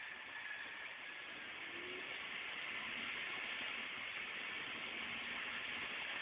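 2009 VW Rabbit's 2.5-litre five-cylinder engine idling roughly, heard mostly as a steady hiss that grows slightly louder about two seconds in. The owner traced the rough idle to carbon build-up in the throttle body.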